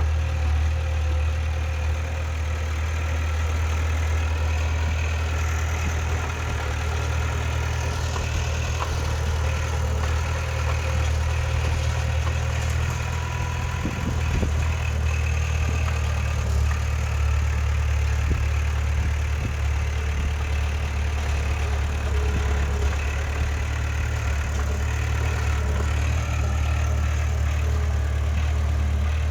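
Heavy diesel engine of earthmoving machinery running steadily at a low, even speed, with a deep constant hum.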